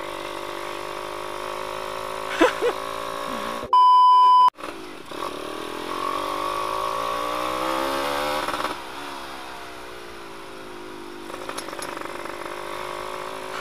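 Yamaha F1ZR's two-stroke single-cylinder engine running with the exhaust baffle removed, its pitch rising as the bike accelerates and then falling as the throttle closes. A loud steady beep cuts in for under a second about four seconds in.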